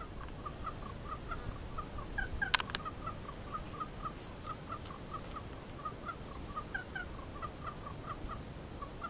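Birds calling in a continuous run of short repeated notes, about three a second and slightly varying in pitch. A couple of sharp clicks come about two and a half seconds in.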